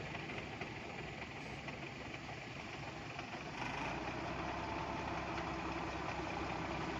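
Truck engine running steadily at low revs, getting somewhat louder about three and a half seconds in.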